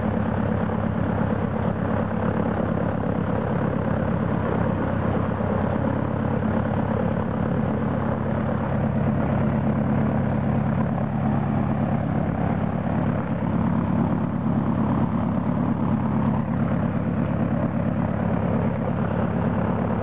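Saab 91D Safir's piston engine running steadily with its propeller turning, an even pulsing hum that holds the same pitch throughout.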